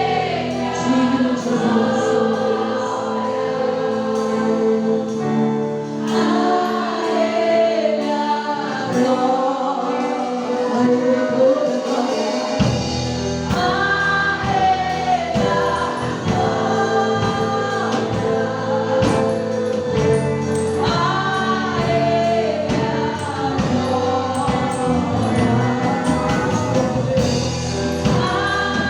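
Gospel worship song with a choir singing over a band. The bass and drums drop back for the first part and come back in about twelve seconds in.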